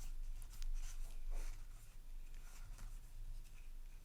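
Soft scratchy rustling of a foil trading-card booster pack being opened and its cards handled, over a low steady hum.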